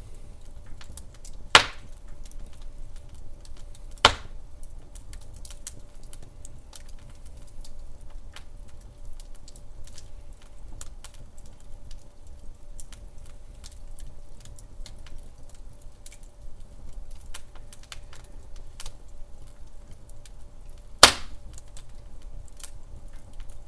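Wood fire in a fireplace crackling, with many small irregular ticks and three sharp, loud pops: about one and a half seconds in, about four seconds in, and near the end.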